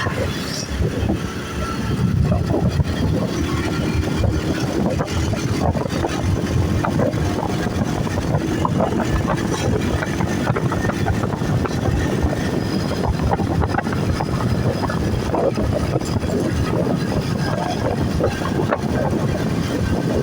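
A steady low rumble of vehicle noise, continuous and unchanging.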